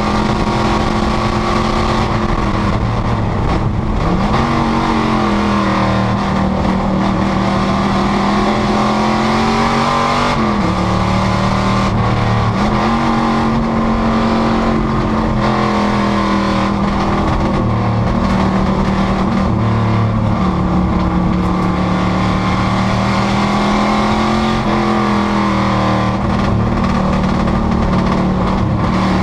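Panoz GTS race car's engine running hard at racing speed, its note holding high with several quick changes where the pitch dips and climbs again, about four seconds in, around ten seconds, and again near twelve seconds.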